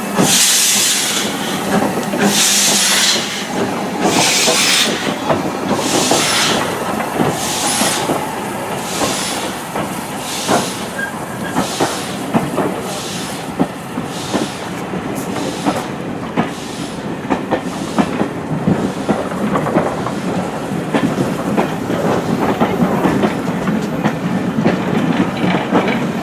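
Steam locomotive pulling away, its exhaust beats coming about every two seconds and quickening to just over one a second before fading. Train wheels click over the rail joints and rumble as the coaches roll past, louder near the end.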